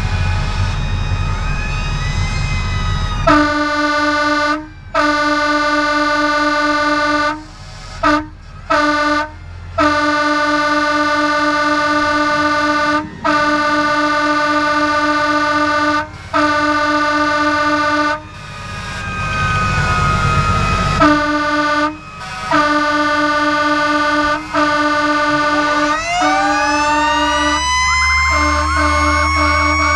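Fire engine air horns blasting in long, steady blasts with short breaks, after a few seconds of deep diesel engine rumble. Near the end a mechanical fire siren winds up, rising in pitch under the horns.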